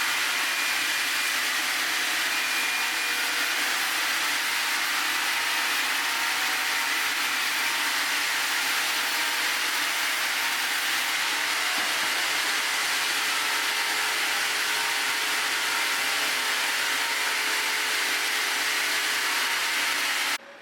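Sawmill running steadily through a Kaizuka juniper log, a loud even saw noise that stops abruptly near the end.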